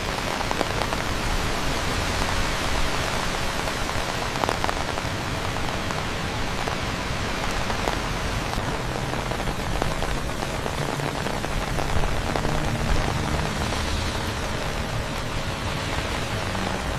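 Steady rain falling, a dense hiss with the patter of individual drops. It starts and stops abruptly.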